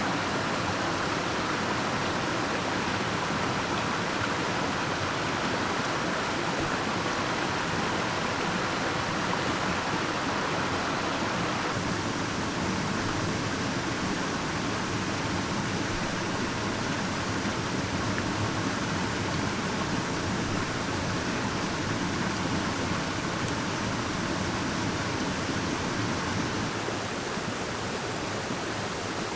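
Mountain stream rushing steadily, dropping a little in level near the end.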